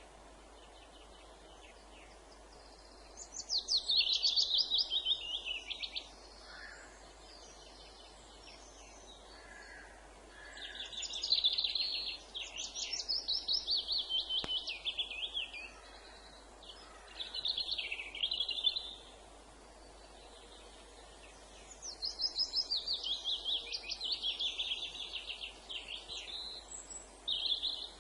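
Songbird singing: several phrases of rapid high notes, each running downward over two to four seconds, with pauses of a few seconds between them, over a faint steady background hiss.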